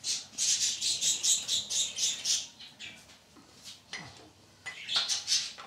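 A bird chirping: a quick run of about nine high, short notes at roughly four a second, then a shorter run near the end.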